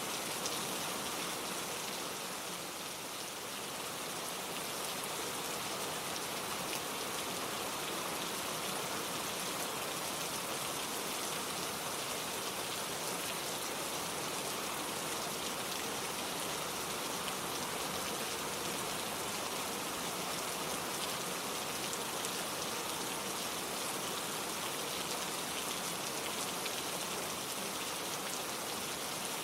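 Steady gentle rainfall, an even hiss of drops falling on a surface, with no thunder.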